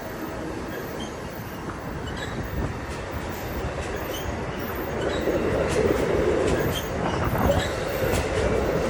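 Train noise with wind buffeting the microphone, getting louder about five seconds in.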